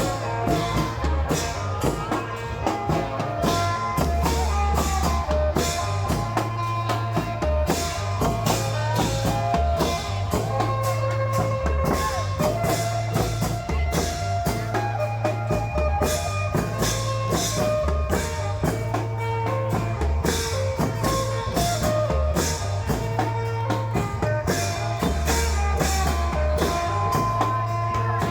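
Isan klong yao long-drum band playing lively festival music: a steady, driving drum beat with a heavy bass line and a melody running over it.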